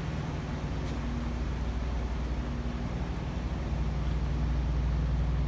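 Steady low mechanical drone with a constant hiss over it, unchanging throughout.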